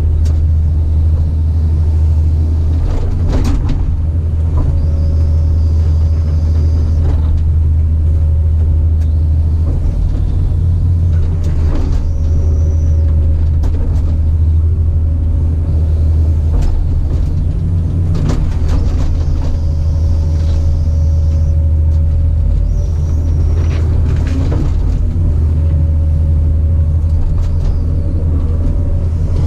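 Caterpillar 973C track loader's diesel engine running steadily under load, with scattered clanks and knocks and a high whine that comes and goes several times.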